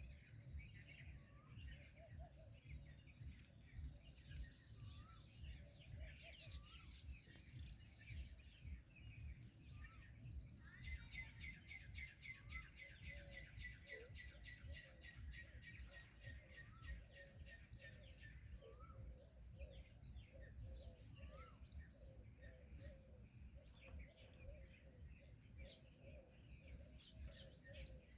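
Small birds chirping faintly, with a long fast trill of rapidly repeated notes through the middle. A low rumble runs underneath.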